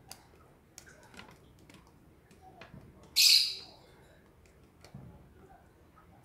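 A single short, harsh, high-pitched bird call about three seconds in, over faint clicks of hands handling small parts.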